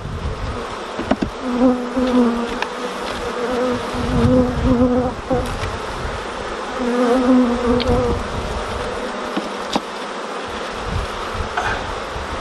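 Honeybees buzzing around an open hive, with bees passing close by in three louder, wavering buzzes.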